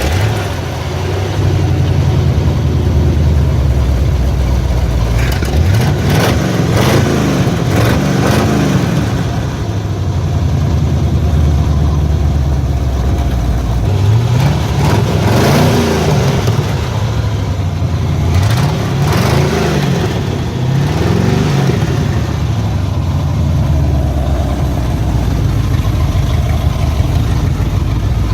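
V8 engine in a Chevy S10 running, revved in short rising-and-falling blips several times. Its ignition timing is a little off after the distributor was bumped.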